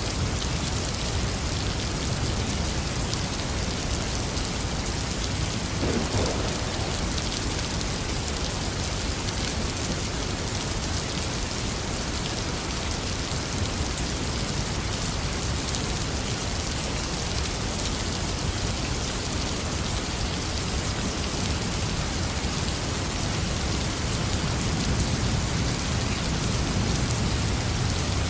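Heavy rain falling steadily, with a low rumble of thunder swelling near the end.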